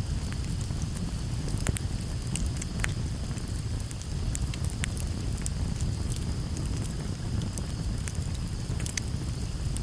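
Campfire burning, with frequent sharp, irregular crackles and pops from the wood over a steady low rumble.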